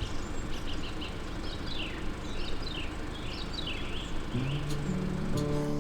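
Several small birds chirping in short, quick falling calls over a steady rushing background noise. Music comes in over them about four seconds in.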